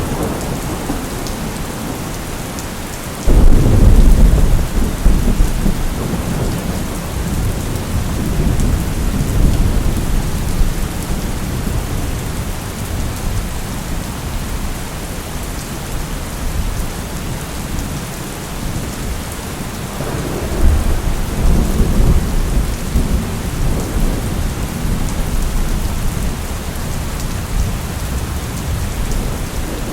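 Steady rainfall with thunder: a sudden loud thunderclap about three seconds in that rolls on for several seconds, and a second rumble of thunder about two-thirds of the way through.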